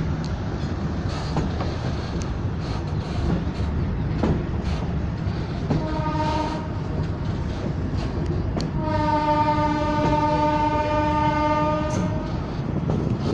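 Train running on the rails, heard from a carriage of the moving train: a steady rumble with scattered clicks of the wheels over the track. The train's horn sounds a short blast about six seconds in, then a long steady blast of about three seconds.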